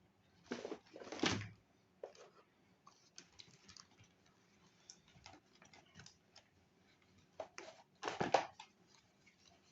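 A small pet eating a snack: irregular light clicks and crunches, with two louder, longer crunching bursts, one about a second in and one about eight seconds in.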